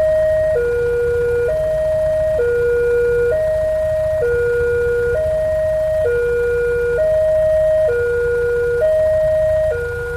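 Railway level crossing warning alarm sounding: an electronic two-tone signal alternating steadily between a higher and a lower tone, each held just under a second, warning that a train is approaching.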